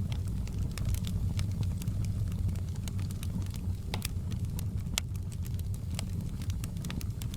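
Fireplace fire burning with a steady low rumble, crackling and popping at irregular moments.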